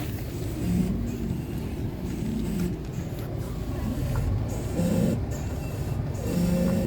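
Lada Largus suspension creaking: a short, low-pitched creak repeats every second or two over a steady low rumble.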